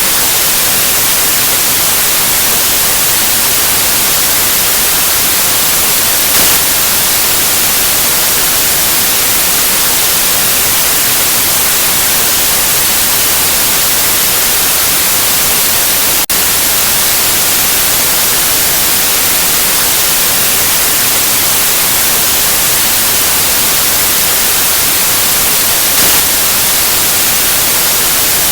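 Steady white noise, an even hiss strongest in the highs, with one momentary dropout about halfway through.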